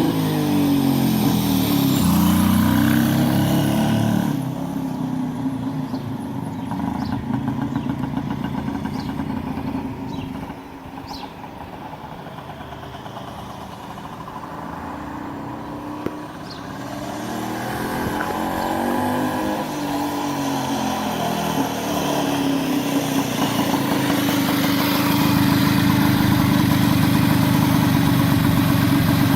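1935 Francis-Barnett Seagull 250cc motorcycle engine running under way. It drops away sharply about four seconds in and fades into the distance, then grows louder again as the bike comes back, settling to a steady, even run near the end.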